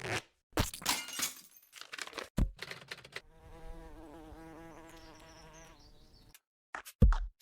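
A buzzing sound, wavering in pitch, lasts about three seconds after a few short noisy bursts. Short low thumps start near the end.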